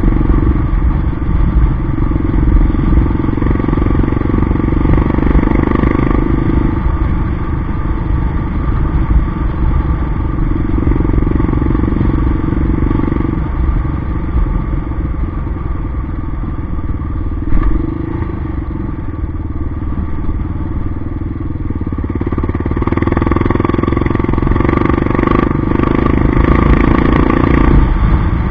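Yamaha XT 600's single-cylinder four-stroke engine running under way on a dirt track, its note swelling and easing every few seconds with the throttle, over a heavy low wind rumble on the microphone.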